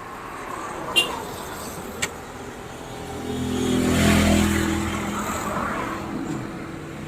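Isuzu 6HK1 diesel truck engine being started after its loose number 5 and 6 injector lines were tightened. Two sharp clicks come first, then the engine sound swells up about three seconds in and eases back down.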